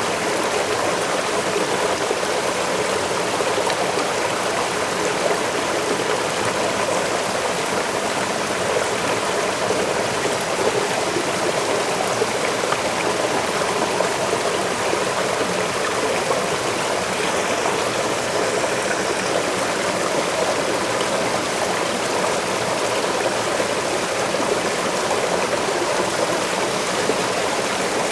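Waterfall pouring into a stream, a steady, unbroken rush of splashing water.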